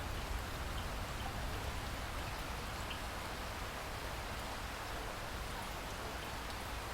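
Steady rainfall in a rainforest, a dense even patter of drops with a low rumble underneath and a few faint single drop ticks.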